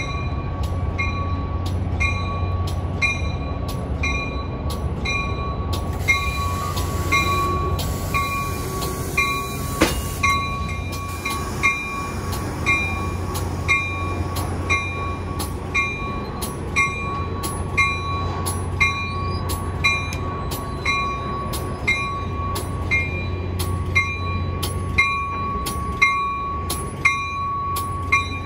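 Caltrain diesel passenger train with bilevel gallery cars rolling slowly past, a steady low engine hum under it, while a bell dings evenly about twice a second. A faint high squeal comes in between about six and ten seconds in, with a sharp click near its end.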